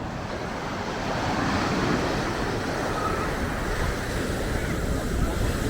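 Ocean surf washing onto a sandy beach: a steady rushing noise that swells a little about a second in, with wind buffeting the microphone.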